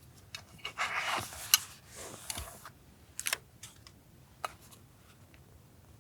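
Paper being handled for a journal collage: short rustles and slides of paper, with a few sharp clicks and taps in between.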